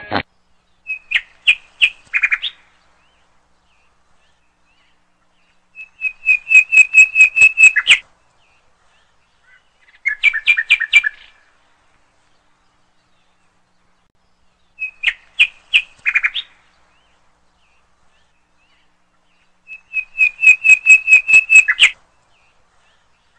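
A bird chirping: five bursts of rapid high notes, each lasting one to two seconds and coming a few seconds apart, with silence between.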